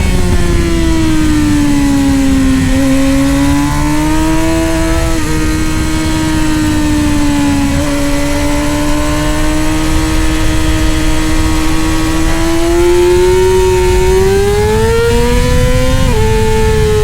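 Middleweight superbike race motorcycle engine. Its note falls as the bike slows, steps through gear changes about 3 and 5 seconds in, then climbs steadily under acceleration, with a quick upshift drop near the end. All of this sits over a steady low rumble.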